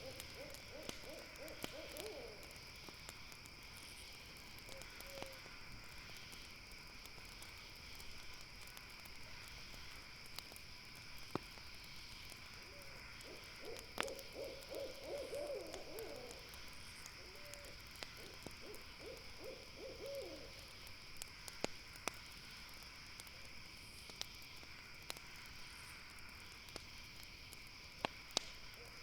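An owl giving low, quavering trilled hoots, at the very start and again in a longer run through the middle. Under it, campfire crackle with scattered sharp pops and a steady high chirring of night insects.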